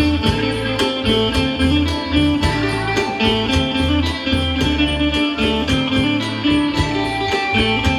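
Northeast Thai pong lang ensemble playing: the wooden pong lang xylophone and plucked strings over a steady bass line and a fast, even drum beat.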